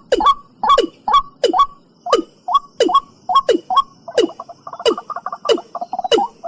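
Watercock calling: a steady series of sharp notes, each sliding down in pitch, about two to three a second. About four seconds in, a faster run of short notes joins them, the second part of the two-part call.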